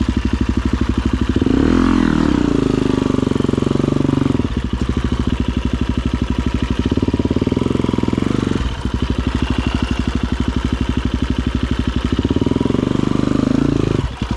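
Dirt bike engine running at low to moderate revs, its pitch and level rising and falling several times as the throttle is blipped.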